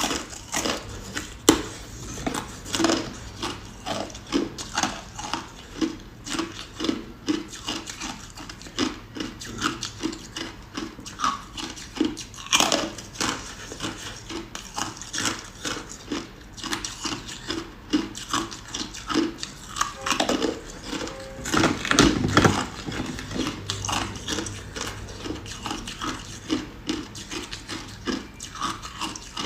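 Close-miked ice being chewed: a steady rhythm of crunches, about two a second, with a few louder bites into fresh ice.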